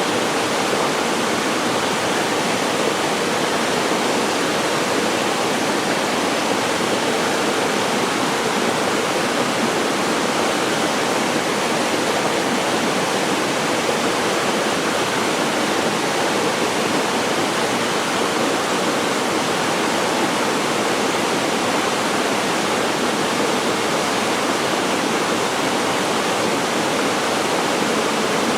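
Waterfall pouring into a mountain-valley pool: a steady, even rush of falling water that does not change.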